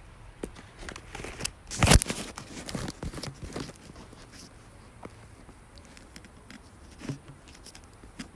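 Handling noises: rustling and scattered clicks, with one loud knock about two seconds in and a couple of lighter knocks near the end.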